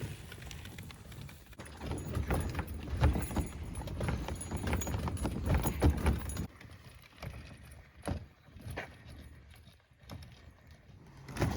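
Rapid, uneven knocking and clattering, then scattered single knocks about six and a half seconds in, with a sharp knock near the end.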